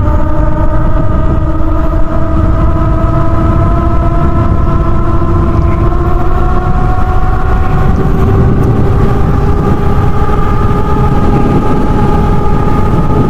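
Wind buffeting the microphone while riding a HappyRun G300 Pro electric dirt bike, with the whine of its 3000 W rear hub motor slowly rising in pitch as the bike gains speed.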